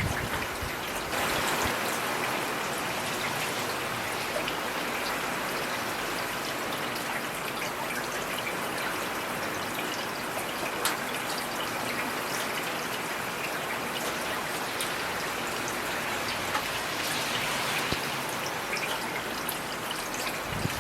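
Heavy rain falling steadily, a dense even hiss with individual drops and patters showing through.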